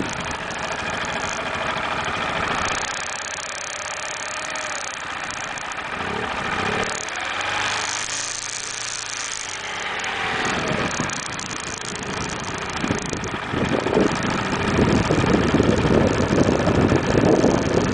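Motorcycle engines running during a river crossing, their pitch rising and falling through the middle as the throttle changes. The sound grows louder and rougher over the last few seconds.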